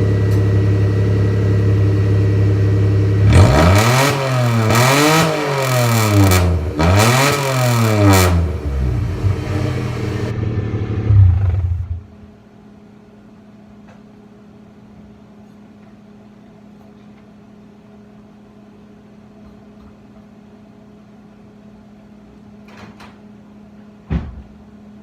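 Straight-piped three-cylinder Geo Metro engine, its exhaust cut open ahead of the muffler, idling unmuffled, then revved wide open twice, each time rising and falling back. It settles to idle and is shut off about halfway through, leaving a low steady hum and a single knock near the end.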